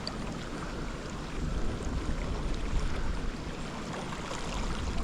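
Steady rush of flowing current, with a low rumble that grows louder a little over a second in.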